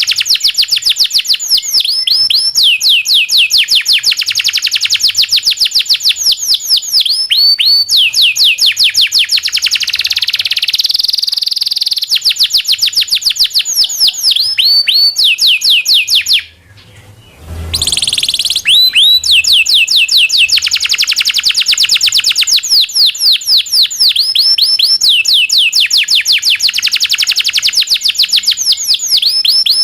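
Local Indonesian canary singing long, fast rolling trills of rapidly repeated down-sweeping notes, with a short break about seventeen seconds in.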